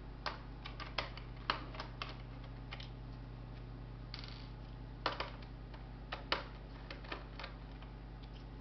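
Irregular small clicks and taps of plastic and metal laptop parts and tools being handled during disassembly, in two clusters of quick strikes, over a steady low hum.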